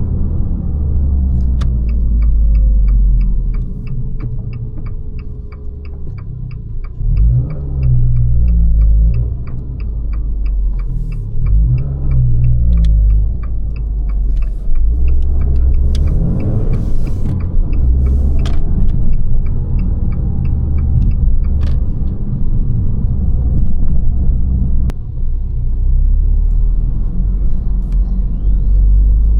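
Abarth 595 Competizione's 1.4 T-Jet turbocharged four-cylinder running through its Record Monza exhaust while driving, a deep rumble with the engine note rising and falling as it is revved and eased off. Through the first half a light, regular ticking runs at about two to three ticks a second.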